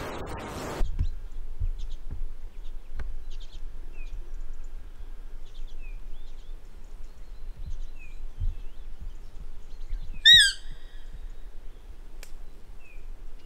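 Bird calling in the open: faint scattered chirps, then one short, louder run of quick descending whistled notes about ten seconds in, over a faint low rumble.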